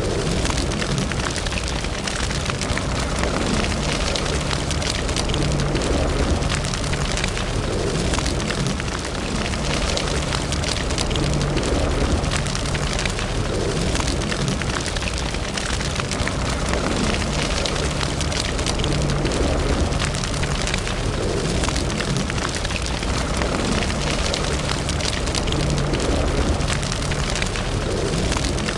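Wood fire burning in a fireplace: a steady low rush of flames with frequent sharp crackles and pops throughout.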